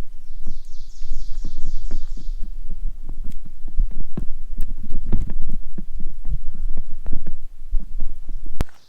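Rapid, irregular low thumps over a steady low rumble, several a second, which cut off abruptly near the end.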